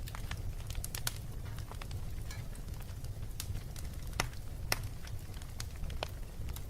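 Fire in a fireplace crackling: irregular sharp pops and snaps over a steady low rumble, with a few louder pops about a second in and again around four to five seconds in.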